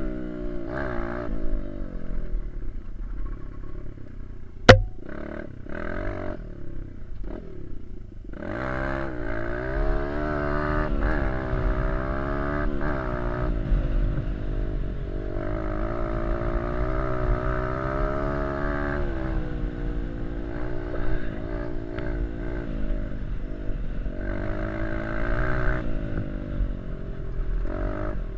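Small dirt bike engine revving up and down as the bike is ridden, its pitch rising and falling over and over. A single sharp click, the loudest sound, comes about five seconds in.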